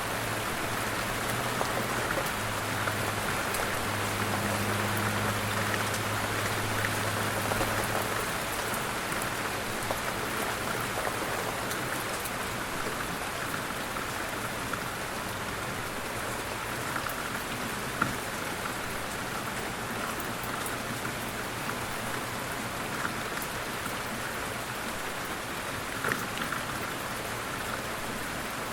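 Light rain falling steadily as an even patter, with a couple of single drops hitting more sharply later on. A low hum sits under it for the first several seconds.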